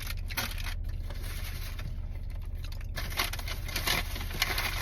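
Rustling and crinkling of takeout food packaging being handled, busier in the second half, over a steady low hum.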